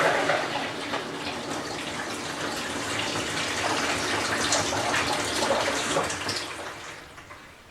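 Whirlpool Cabrio top-load washer with water rushing and sloshing in the tub. The sound fades away over the last two seconds.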